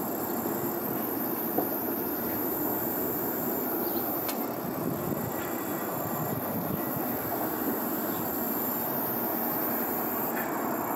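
Boeing 737-800's CFM56 jet engines running steadily at low power as the airliner taxis: an even rushing noise with a thin, steady high whine.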